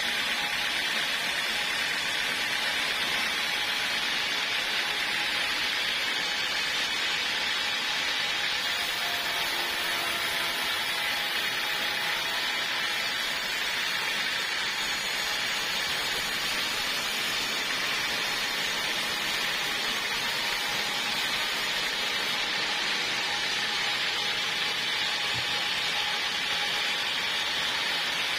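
Portable sawmill running steadily as it saws through a log, an unbroken hissing noise with no pauses.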